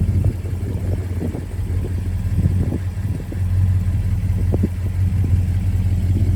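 The Coronet R/T's 440 V8 idling steadily with a low, even exhaust burble.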